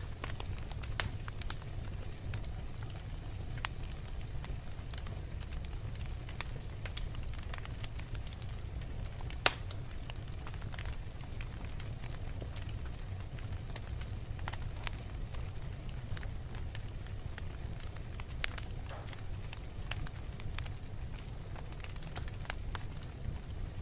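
Wood fire burning in a fireplace: a steady low rumble of the flames with irregular crackles and snaps from the burning logs, one sharper pop about nine and a half seconds in.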